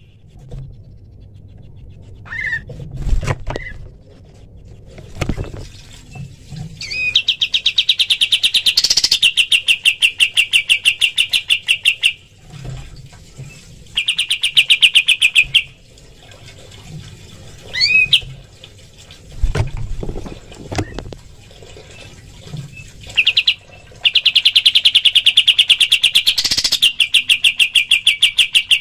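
Kapas tembak bird giving its rapid 'tembakan' song: long bursts of fast, evenly repeated sharp notes, separated by pauses. Short single chirps and a few low thumps fall in the gaps.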